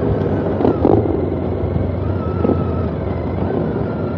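Motorcycle engine running steadily while riding, with road and wind noise on the onboard microphone; a steady whine comes in about halfway through.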